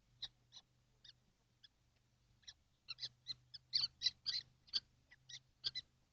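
Kestrels in a nest box giving short high-pitched calls, a few scattered at first, then many in quick succession through the middle. A faint steady low hum runs underneath.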